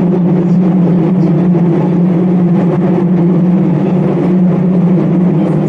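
Hanshin 1000 series electric train running at steady speed, heard from inside a motor car: a loud, even rumble of wheels on rail with a constant low hum.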